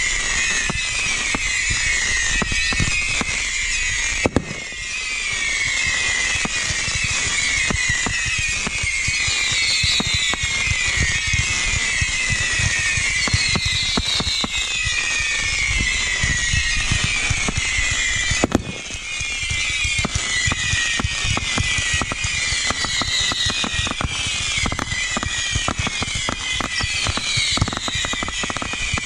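Consumer fireworks going off non-stop: dense crackling with many overlapping falling whistles. Two heavier bangs stand out, about four seconds in and about eighteen seconds in.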